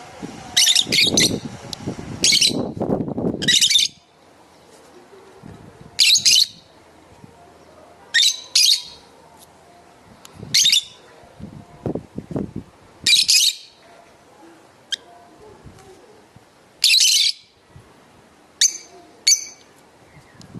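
Lovebirds giving short, shrill chirping calls, one every second or two at irregular intervals. Low knocks and rustling come in the first few seconds.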